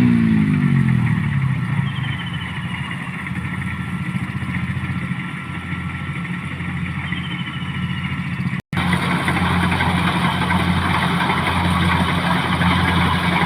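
Motorcycle engine running steadily, its pitch falling just at the start. About two thirds of the way through it cuts out for an instant, then comes back louder and rougher.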